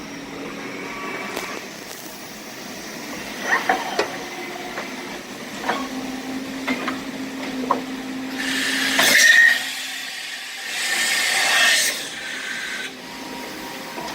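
1986 CNC milling machine running a program: a steady mechanical hum with a faint tone and several sharp clicks, and two loud bursts of hissing noise about eight and eleven seconds in.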